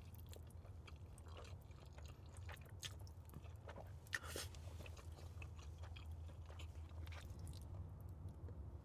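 Close-up mouth sounds of someone eating spaghetti: soft chewing, wet smacks and clicks, with a stronger slurp of noodles about four seconds in. A steady low hum runs underneath.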